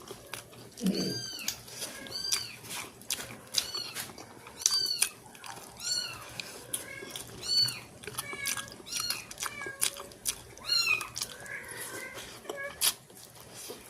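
Cat mewing over and over: short high calls that rise and fall, about one a second, with small clicks in between.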